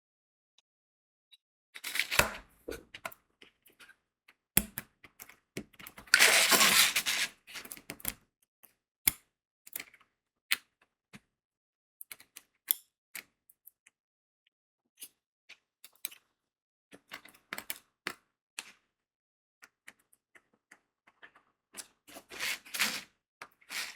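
Diamond painting work sounds: scattered sharp clicks and taps of crystal beads being pressed onto the adhesive canvas with a drill pen. A dense cluster of rattling clicks comes about 2 s in, a longer, louder rattling burst from about 6 to 7 s, and another cluster near the end.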